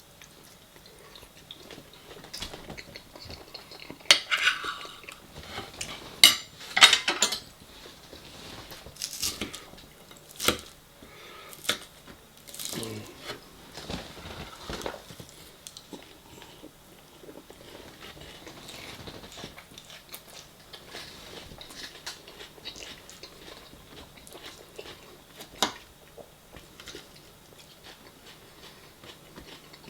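Cutlery clinking and scraping against dishes while eating, in scattered sharp clatters, several of them loud, with some chewing between them.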